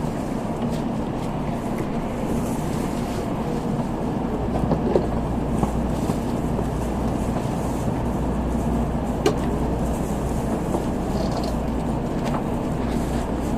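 Steady cabin noise of an N700A Tokaido Shinkansen train running: a continuous low rumble and rolling noise, with a few faint clicks.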